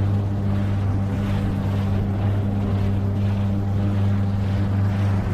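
A 9.8 hp outboard motor running at a steady speed with an even, unchanging hum, over the hiss of water and wind rushing past.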